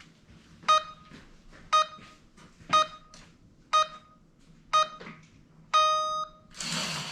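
Lap timer's race-start countdown: five short electronic beeps about a second apart, then one longer beep for the start. Right after it an HO slot car's electric motor starts whirring as the car sets off around the track.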